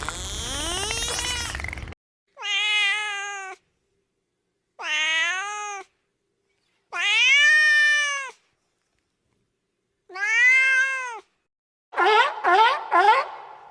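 Domestic cat meowing: four separate drawn-out meows, each rising and falling in pitch, with silence between them, after a rising sweep at the start. Near the end a run of short, quick calls follows.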